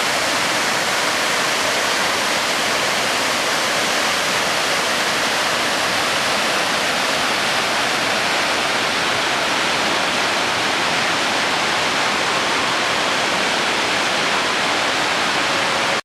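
Oshinkoshin Falls: a large waterfall pouring and splashing in a steady, unbroken rush of water.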